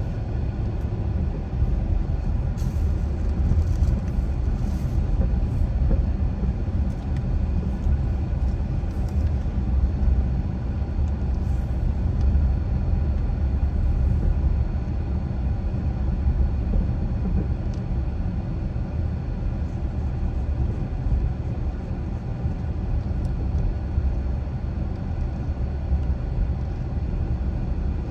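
A car driving along a street: a steady low rumble of tyres and engine.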